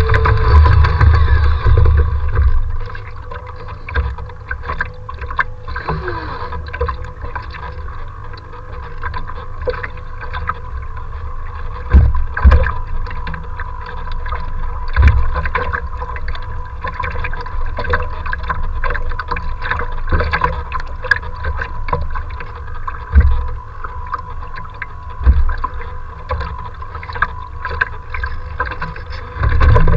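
Strong wind buffeting the microphone: a low rumble with heavier gusts thumping against it near the start, about twelve and fifteen seconds in, and near the end, over a faint steady whine.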